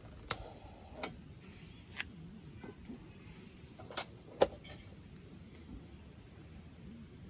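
A handful of short sharp clicks and knocks, five over several seconds, the loudest a little after the middle, over a faint steady background hiss.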